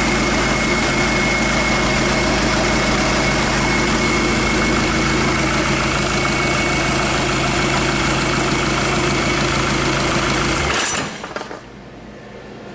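Hyundai D4CB 2.5-litre four-cylinder diesel engine idling steadily, then switched off about eleven seconds in, stopping abruptly.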